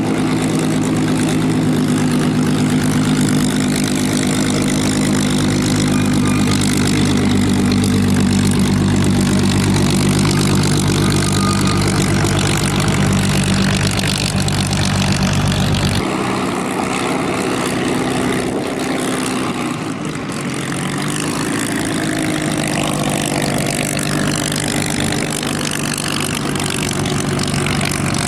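Piston aero engine of a vintage propeller aircraft running steadily at low power, a droning hum. About halfway through the low drone cuts off abruptly and a rougher, more uneven engine sound follows.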